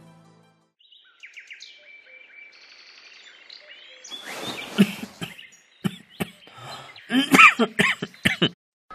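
Birds chirping in short, high calls, followed by a run of louder, irregular calls and sharp clicks in the second half.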